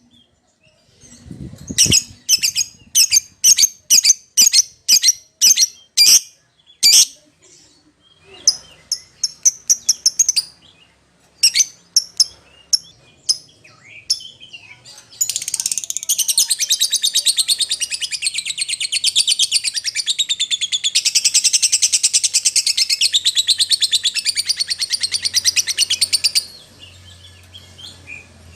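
Lovebird calling to other lovebirds: sharp, high chirps about twice a second, then from about halfway a fast, unbroken chattering trill lasting about eleven seconds that cuts off suddenly.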